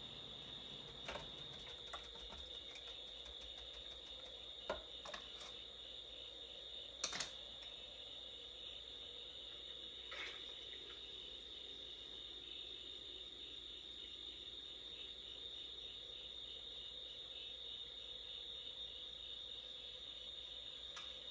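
A cricket trilling faintly and steadily, with a few soft clicks and taps, the loudest about five and seven seconds in.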